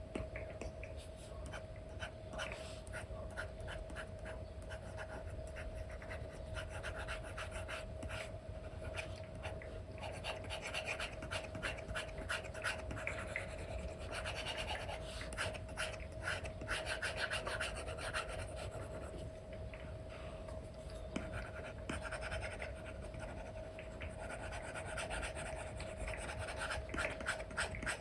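Apple Pencil tip with an Elecom nib scratching across a paper-feel screen protector in quick, repeated short strokes, over a steady low hum.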